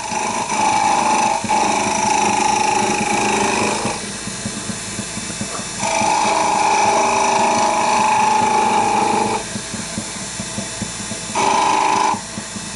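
Wood lathe turning a small wooden spindle while a turning tool cuts it in three passes. Each pass is a steady whirring hum: the first two last three to four seconds each, and a short one comes near the end, with the lathe running more quietly in between.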